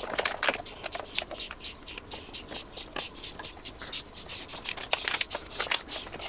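Hands working inside an amplifier's chassis: paper rustling and crinkling with a string of light clicks and taps from small parts being handled.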